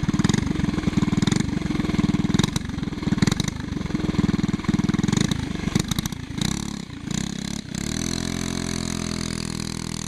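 Brand-new Briggs & Stratton Animal single-cylinder go-kart engine running hard under throttle, then let off with a few sputters about six to seven seconds in, and settling into a steady idle near the end. It is the engine's first run.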